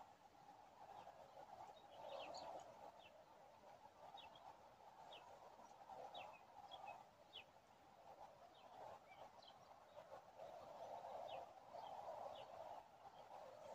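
Faint, short, falling chirps of small birds, scattered irregularly, over a steady background hiss that swells and fades.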